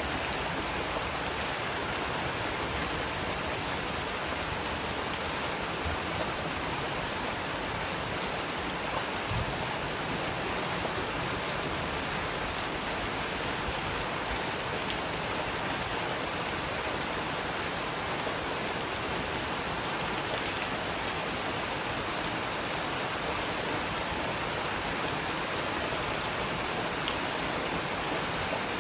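Steady rain falling, with faint scattered crackles and one sharper pop about two thirds of the way through from a wood fire in a fireplace.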